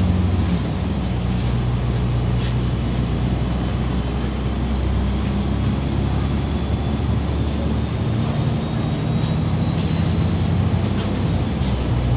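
MAZ 203.065 city bus heard from inside the cabin while driving: a low diesel engine hum that shifts in pitch a few times as it pulls, with faint high whines and a few short rattles or knocks from the body.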